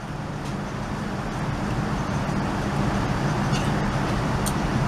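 Jet engine noise from a Boeing 787-9's Rolls-Royce Trent 1000 engines heard inside the cabin: a steady rushing sound with a low hum that grows steadily louder as thrust builds.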